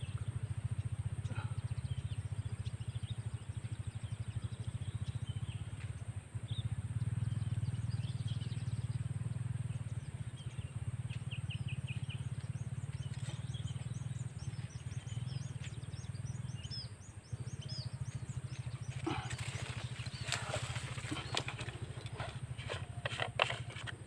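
Outdoor field ambience: a steady low rumble under a constant thin high-pitched whine and scattered faint bird chirps, with a spell of rustling and clicking handling noise near the end.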